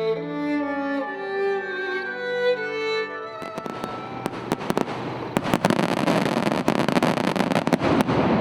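Bowed-string music with violin and cello plays for the first three seconds or so, then gives way abruptly to a fireworks display: a dense wash of shell bursts with many sharp cracks and bangs, loudest near the end.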